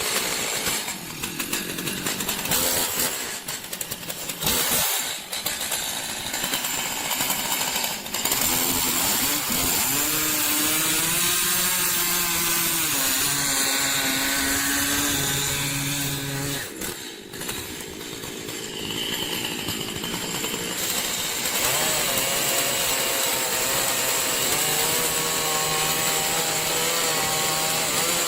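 Chainsaw running loud while cutting wood. Its engine note dips and recovers under load through the second half, after a noisier first part with sharp cracks.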